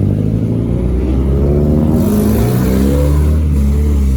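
Car engine running close by, its note rising as it is revved over a couple of seconds and then settling back.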